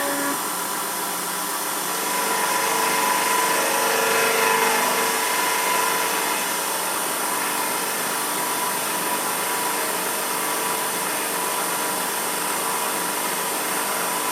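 Emco F1 CNC milling machine running a 16 mm four-flute cutter through a light finishing cut (0.5 mm deep, 150 mm/min) in a cast aluminium engine pan: a steady spindle whine with cutting noise, which swells a little a few seconds in.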